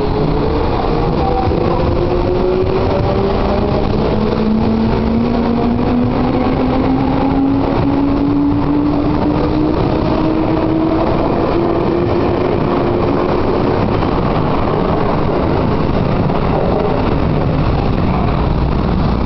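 A 205 series electric train accelerating away from a station: its traction motors whine in tones that climb slowly and steadily in pitch over a continuous rumble of wheels on rail.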